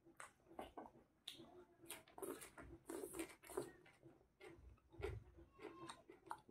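Faint, irregular chewing and lip-smacking of a person eating chicken curry with their fingers, with small wet mouth clicks.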